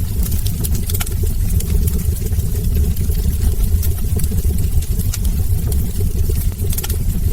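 Log fire burning in a brick fireplace: a steady low rumble of the flames with scattered crackles and pops from the wood, sharpest about a second in and near the end.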